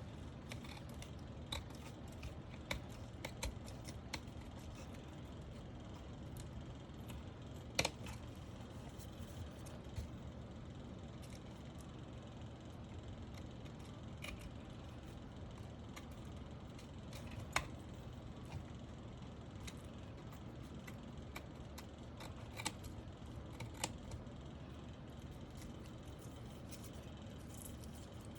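Scattered small plastic clicks and handling of keyboard parts, with a few sharper clicks standing out, during a mechanical keyboard build.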